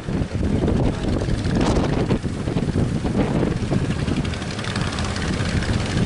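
Strong wind buffeting the microphone in gusts, over the low running of a boat's outboard engine.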